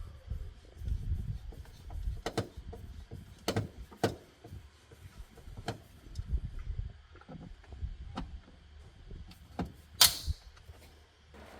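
Irregular knocks, clicks and low thumps of car parts and tools being handled during disassembly, with one sharper clack about ten seconds in.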